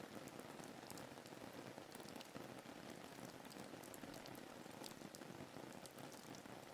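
Soft, steady rain falling, with many small individual drops ticking through the constant patter.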